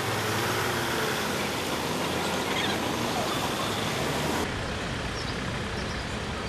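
Steady road traffic noise, an even hiss, changing abruptly about four and a half seconds in to a duller, lower rumble.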